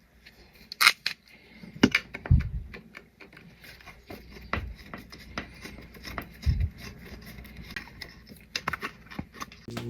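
Scattered clicks and scrapes of hands handling tools and materials, with two dull thumps, about two and six seconds in.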